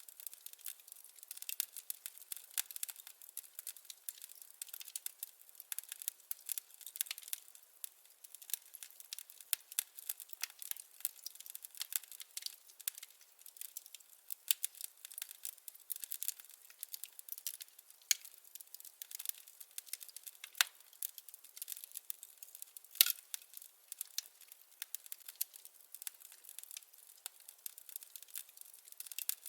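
Wood fire crackling in a fireplace: a dense, irregular run of small pops and snaps, with a few louder pops, the loudest about three-quarters of the way through.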